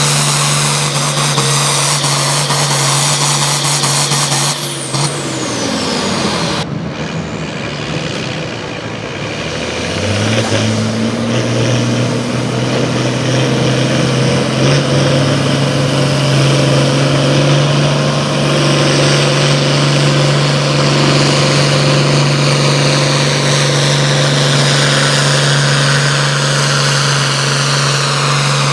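Engine of a competition pulling vehicle running hard at high revs, with a high whine above it. Its pitch falls about five seconds in, and after an abrupt change it climbs back from about ten seconds in and holds steady at full throttle.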